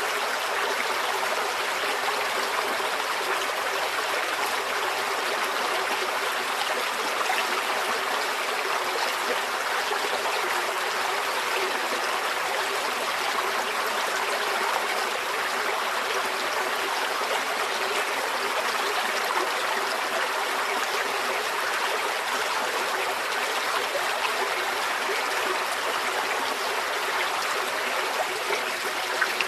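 Shallow stream flowing steadily, water rushing and trickling over rocks in an even, unbroken babble.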